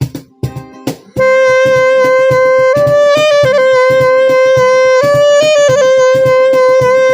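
Saxophone melody over a plucked, guitar-like rhythmic accompaniment. The accompaniment plays alone for about the first second. Then the saxophone comes in loud with long held notes, shifting pitch a few times.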